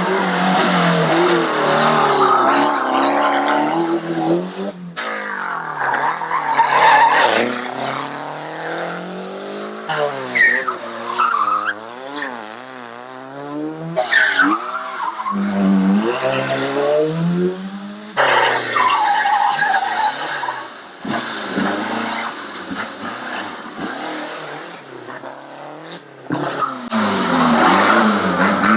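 Group A rally cars at full stage speed in several passes cut together, engines revving hard and rising and falling in pitch through gear changes and lifts, with tyres squealing on the corners.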